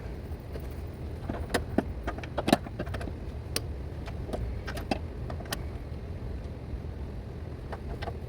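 Scattered sharp metal clicks and clinks of a deep socket, extension and breaker bar on the transmission mount's nuts as they are worked loose, the loudest about two and a half seconds in and fewer toward the end, over a steady low hum.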